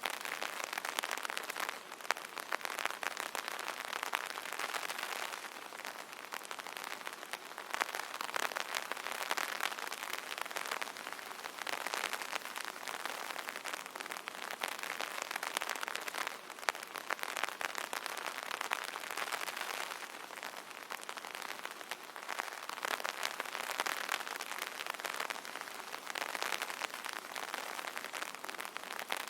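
Rain drumming on an umbrella: a dense patter of drops hitting the stretched canopy, swelling and easing every few seconds.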